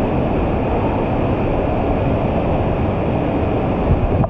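Steady, loud rush of falling water from artificial waterfalls, echoing inside an enclosed cave.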